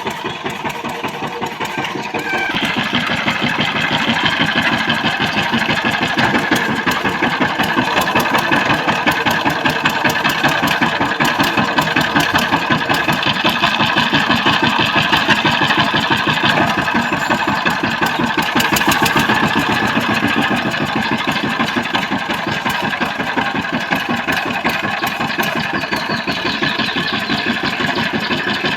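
Walk-behind power tiller's single-cylinder diesel engine running with a rapid, even firing beat. It gets louder about two and a half seconds in and then runs steadily.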